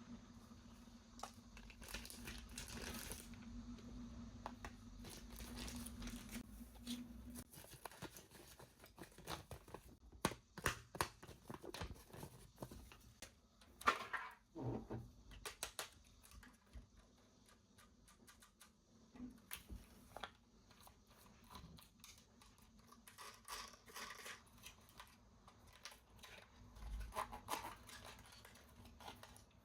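Toy packaging being handled and opened by hand: crinkling, tearing and scattered light clicks and taps, with a faint steady hum for the first several seconds.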